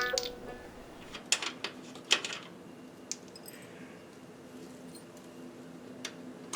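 A few separate sharp clicks and light clinks, spaced irregularly, over a faint steady low hum.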